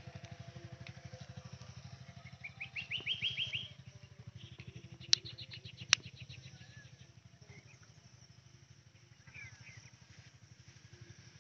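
Birds calling over a steady low, pulsing engine hum: a quick series of rising chirps a few seconds in, a rapid high trill in the middle, and a short falling chirp series near the end. Two sharp clicks come about two-thirds of the way through the first half.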